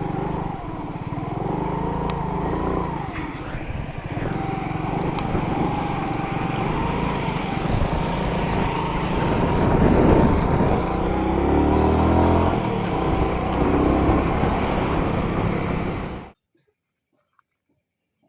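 Suzuki Smash motorcycle being ridden, its small single-cylinder engine running under a loud rush of wind on the microphone. The sound cuts off abruptly about sixteen seconds in, leaving near silence with a few faint ticks.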